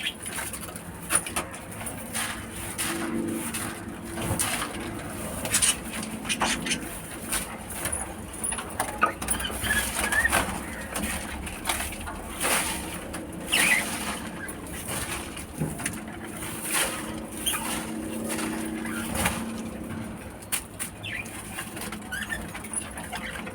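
African lovebirds chirping in short calls, mixed with many sharp clicks through the whole stretch.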